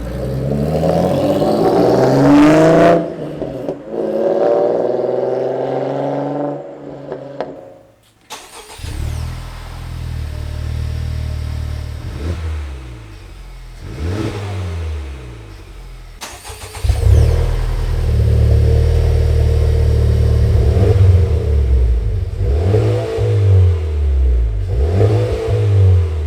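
Honda Civic Type R's four-cylinder engine through a Blitz Nur-Spec cat-back exhaust, revving up in two rising pulls. After a short break it settles into a low, steady exhaust note with some rises and falls in revs, which becomes louder about two-thirds of the way in.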